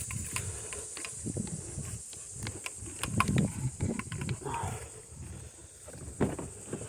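Dogs breathing and making small vocal sounds, with scattered clicks, knocks and thuds of movement and handling.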